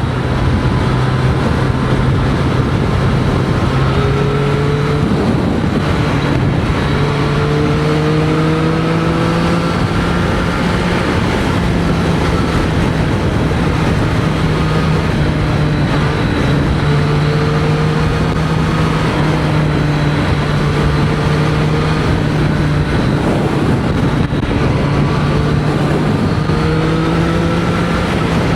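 Triumph Street Triple 765 RS's three-cylinder engine running steadily at highway speed under a dense rush of wind noise, heard from a mic inside the rider's helmet; the engine note creeps up and eases back slightly several times with the throttle.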